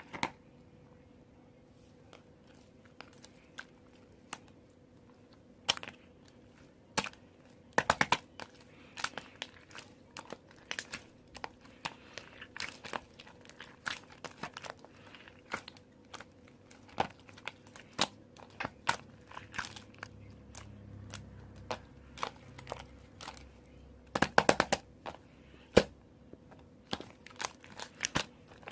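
Mixed slime being squished and stretched by hand, giving irregular sticky clicks and air-bubble pops, with quick runs of pops about 8 seconds in and again near 24 seconds.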